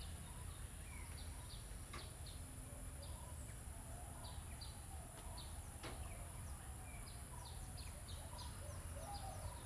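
Birds calling in the background: many short, high chirps repeated over and over, with lower warbling calls in between. Two faint clicks come about two and six seconds in.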